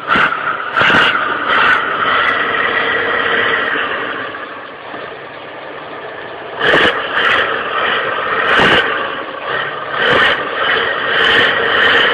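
Truck engine running steadily with a hiss, broken by a handful of short sharp cracks or knocks.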